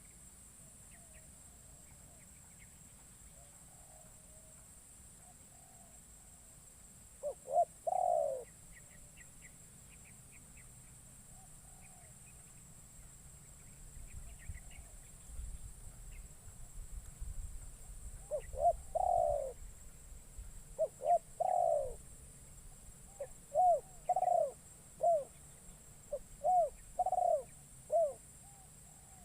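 Spotted dove (terkukur) cooing: five phrases of a few short coos ending in a longer one. The first comes about seven seconds in and the other four close together in the last ten seconds. It is a caged decoy dove calling to lure wild doves, with faint chirps of small birds in between.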